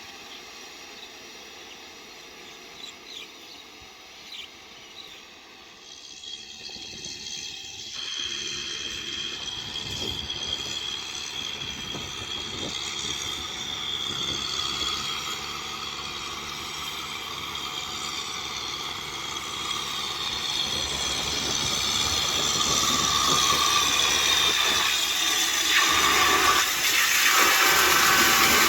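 Kubota M6040SU tractor's diesel engine running with the rotavator at work, faint at first and growing steadily louder from about six seconds in, with a hissing rush over the engine note.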